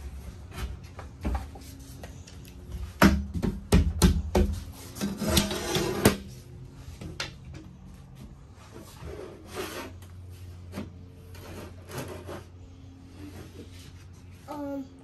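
Renovation work noises: irregular knocks and clatter, loudest and thickest about three to six seconds in, with a rasping scrape near the middle.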